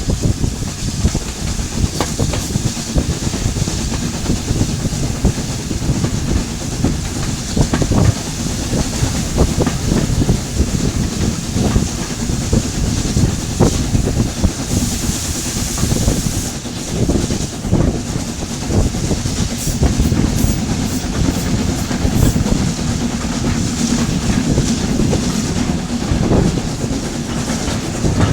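Heritage railway train running along the line, with a steady low rumble and wheels clicking over the rail joints. A burst of hiss comes about halfway, followed by a run of short sharp bursts.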